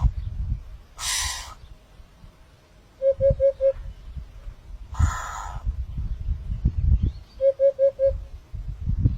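A bird calling in a repeating pattern: a short harsh, hissing call, then a quick run of four short hoots, then the harsh call again. Each part comes about every four seconds.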